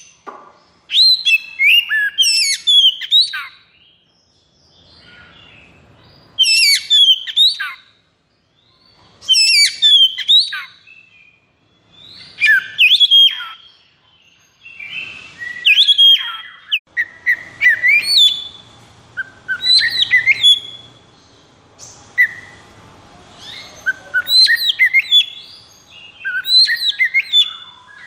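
Oriental magpie-robin (kacer) singing loud, rapid bursts of sliding whistles and chattering notes, each one to three seconds long with short pauses between. The phrases come more densely in the second half. This is the excited "konslet" song used to provoke other kacers into singing.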